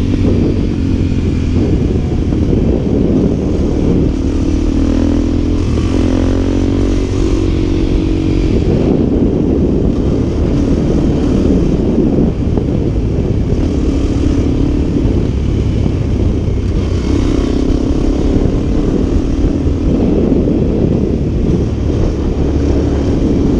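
Dirt bike engine running steadily, its pitch rising and falling now and then with the throttle.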